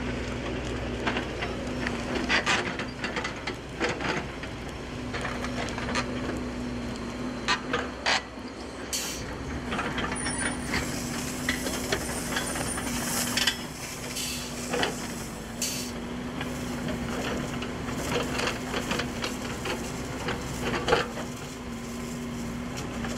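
A steady hum at one pitch under an even hiss, with many scattered sharp cracks and clicks.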